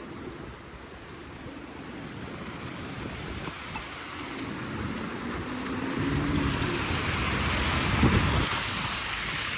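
Wind rushing over the microphone in a snowstorm, with a vehicle approaching on the snowy street, its tyre and engine noise growing louder over the second half.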